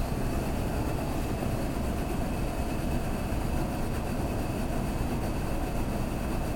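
Steady low rumble and hiss inside a Kintetsu limited express passenger car, with a faint constant high hum and no rail-joint clicks.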